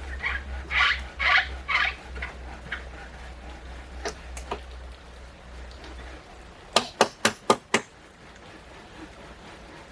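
Domestic fowl clucking in a quick run of short calls, then five sharp knocks in about a second, like hammer or chopping strokes.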